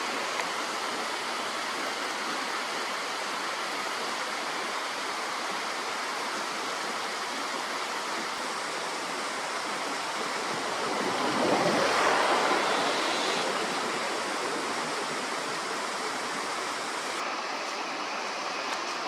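Steady rushing of flowing water, with a broad swell of louder noise rising and fading about eleven to thirteen seconds in.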